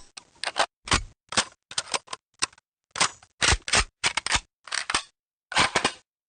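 A string of short, sharp clicks and clacks in quick clusters, each cluster cut off abruptly with silence between them, and a longer pause near the end.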